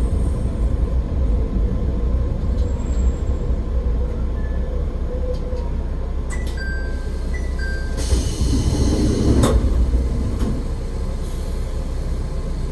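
AN-8800 diesel railcar running along the track with a steady low rumble. A two-note ding repeats for about a second and a half a little past the middle, and a burst of hiss comes about eight seconds in.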